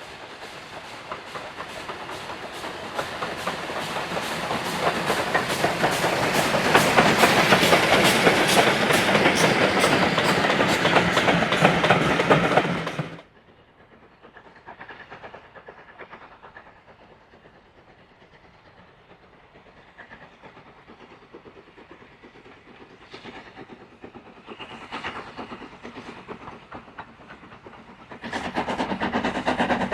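A train passing close by: a fast, rhythmic clatter grows louder as it approaches, then cuts off abruptly about halfway through. A quiet stretch with a few faint sounds follows, and a loud train sound starts again suddenly near the end.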